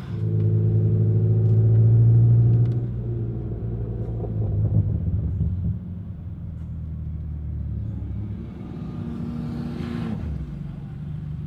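Car engine droning steadily, heard from inside the cabin of a moving car. It is louder for the first three seconds, then eases to a lower, steady drone.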